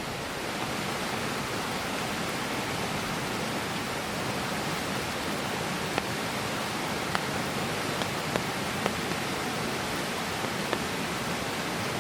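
Heavy rain falling steadily, a dense even hiss, with a few sharp ticks in the second half.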